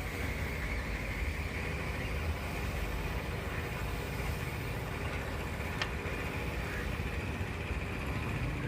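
A steady machine running noise, like an engine or motor idling, with a low rumble and a hiss. A single sharp click comes about six seconds in.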